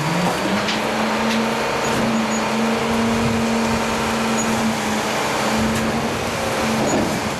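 Truck engine speeding up at the start, then held at a steady, raised speed.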